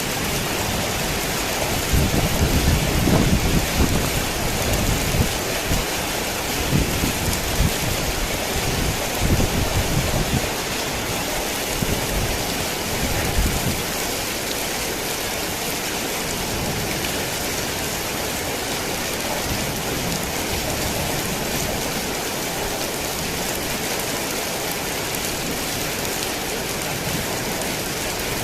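Heavy rain falling steadily in a dense, even hiss. Low rumbles of thunder come and go through the first half, then die away about halfway through, leaving only the rain.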